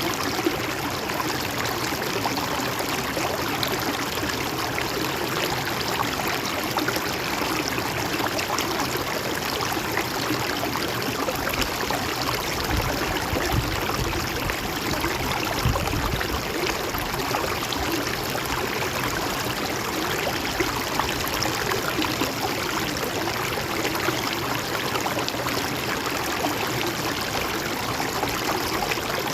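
River or stream water flowing and splashing steadily. A brief low rumble rises under it near the middle.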